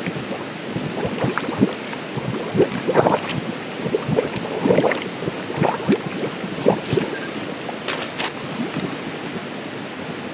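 Running water gurgling and splashing, with irregular small splashes over a steady rush.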